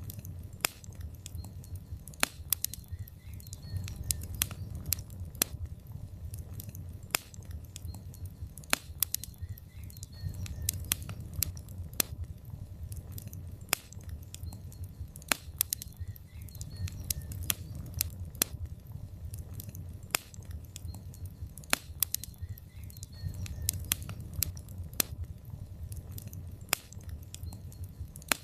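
Log fire in a fireplace crackling: frequent sharp, irregular pops and snaps over a steady low rumble of the flames.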